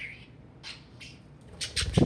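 Budgerigar chirping and chattering in short high calls, the loudest cluster near the end, followed by a loud low thump.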